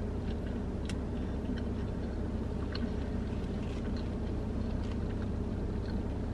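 Falafel being chewed close to the microphone: faint, scattered small crunches and mouth clicks over a steady low hum inside a car.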